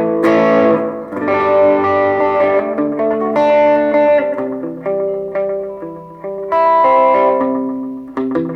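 Electric guitar played through a Positive Grid Reactor 50 combo amp on a lightly overdriven 'wet breakup' tone with a lot of reverb and a little delay. Several chords are strummed and left to ring, each one washing into the next.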